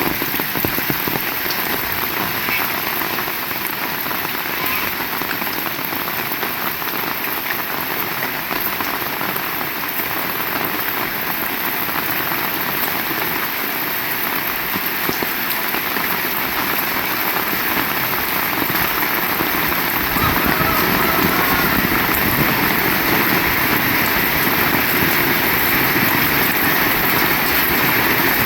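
Heavy rain falling steadily in a dense, even hiss. About two-thirds of the way through, a low rumble joins it and grows louder.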